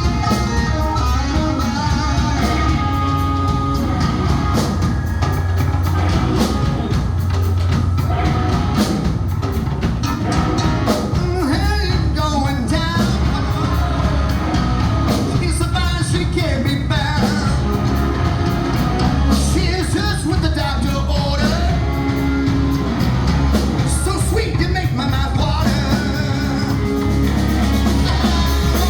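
A rock band playing a song: a singer over electric guitar, bass and drums.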